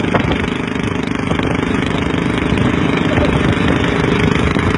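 Engine of a homemade motorcycle running steadily with a rapid low pulsing, with voices in the background.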